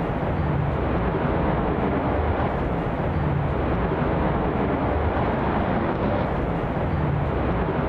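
Jet engine noise from an F-35A fighter's single F135 afterburning turbofan, a steady deep rumble, as the jet flies a maximum angle-of-attack minimum-radius turn.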